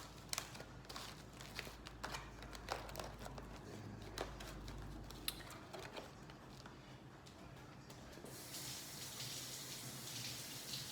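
Scattered light knocks and clatter of kitchen things being handled. About eight seconds in, a kitchen tap is turned on and water runs steadily into the sink to rinse mushrooms.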